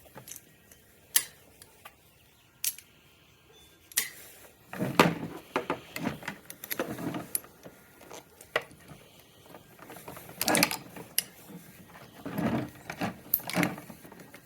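Scattered metallic clicks, clinks and short rattles from hand work on a scooter's handlebar brake lever and cable, in irregular bursts with pauses between them.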